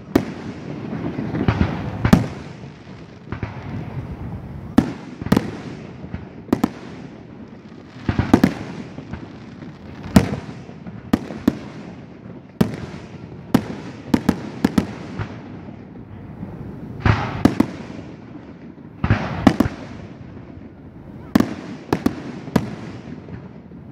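Aerial fireworks shells bursting overhead at irregular intervals: about twenty sharp bangs, some in quick clusters, each trailed by a rolling echo.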